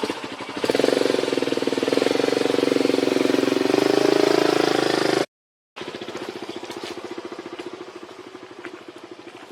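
A small motorcycle engine running close by with an even, rapid pulsing, loudest over the first five seconds. The sound cuts out completely for half a second and then runs on more quietly.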